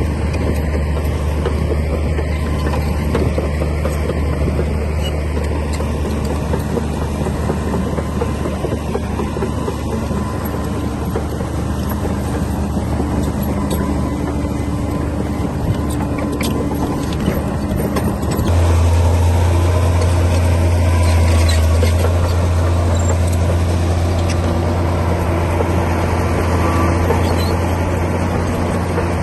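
Komatsu D60P bulldozer's diesel engine running steadily, turning abruptly louder about two-thirds of the way through.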